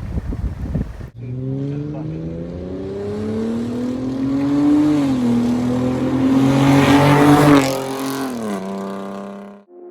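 A 2010 Ford Mustang's 4.0-litre V6 through a custom H-pipe and SLP Loudmouth exhaust, accelerating: the exhaust note climbs steadily in pitch, grows loudest about seven to eight seconds in, then drops in pitch and fades. The first second is wind noise.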